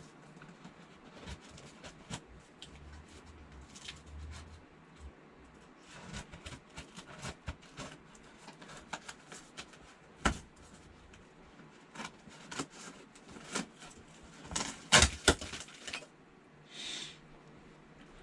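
Cardboard box and packaging being handled and opened: scattered clicks, knocks and rustles, with a cluster of louder knocks about fifteen seconds in and a short scrape just after.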